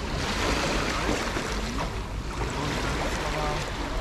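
Small sea waves washing steadily onto a beach, with faint voices of people in the background.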